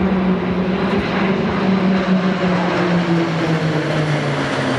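KAI KT-1B Woongbi turboprop trainers flying past, a steady propeller-and-engine drone whose pitch falls gradually in the second half as they go by.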